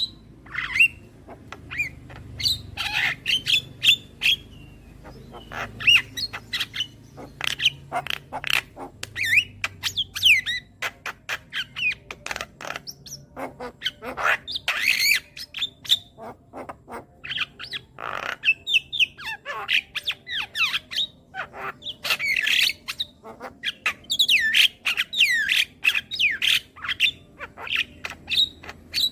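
Javan myna (jalak kebo) singing a busy, varied song: rapid sharp clicks mixed with harsh squawks and short rising and falling whistles, in quick bursts with brief pauses between them.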